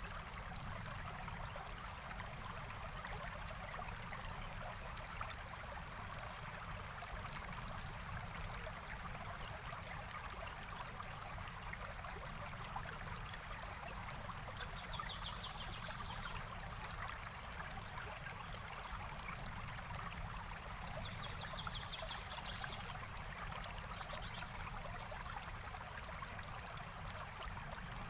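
Forest stream flowing steadily over rocks, an even rushing and trickling of water. A small bird gives short, high trills several times in the second half.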